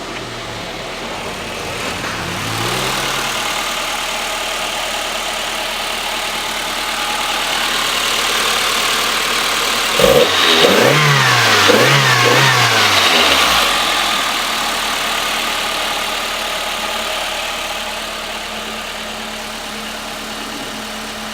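Toyota Corolla EE90's 1.3-litre 2E four-cylinder engine idling after a cold start through an aftermarket exhaust. It is revved briefly about two seconds in, then blipped about three times in quick succession around the middle, the loudest part, before settling back to a steady idle.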